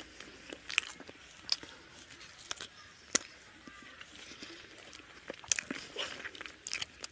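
Close-up eating sounds: chewing a mouthful of rice and chicken curry, with sharp wet lip smacks and mouth clicks at irregular intervals, bunched together near the end.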